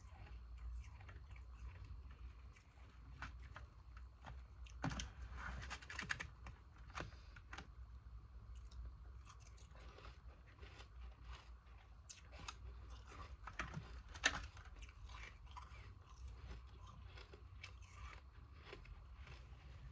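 Close-up chewing and crunching of frozen ice pieces, in scattered soft crunches with a louder burst of crunching about five seconds in and a sharp crunch near the middle.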